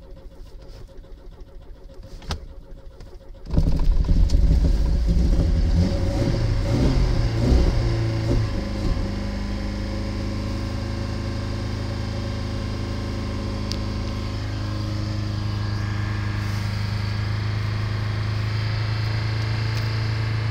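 Lada car engine starting in the cold: it catches suddenly about three and a half seconds in, runs unevenly with revs rising and falling for several seconds, then settles into a steady idle.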